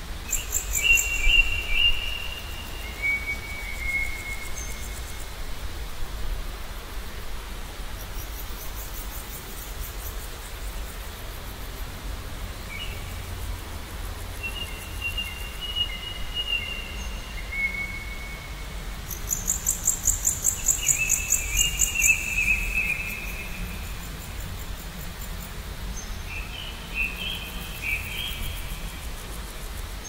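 Small songbirds singing: short whistled phrases coming again every few seconds, and several spells of very high, fast-pulsing trills, the longest and loudest about two-thirds of the way through, over a steady low outdoor rumble.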